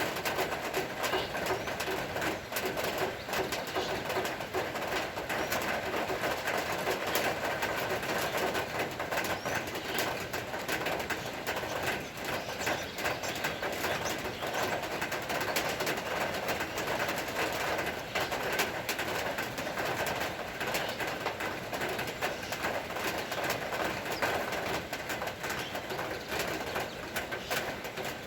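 Steady rain falling, a dense, even stream of small drop hits with no let-up.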